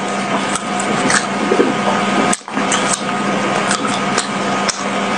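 Close-up mouth sounds of chewing a soft, sticky glutinous rice ball, with squishy clicks, over a steady hiss and low hum. The sound drops out briefly about halfway through.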